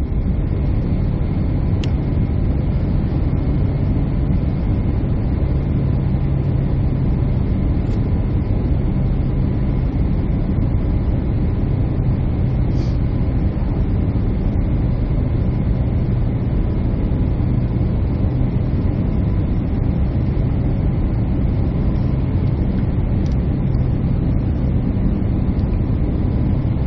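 Steady drone of an airliner's engines and airflow heard inside the passenger cabin, a low even roar with a faint steady hum above it and no change in pitch.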